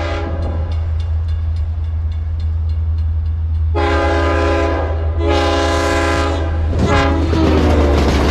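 Long Island Rail Road diesel train's horn sounding a grade-crossing signal as it approaches: the tail of a blast, then two long blasts, a short one, and a fainter, lower-pitched blast as it draws level, over the steady low drone of the diesel engine.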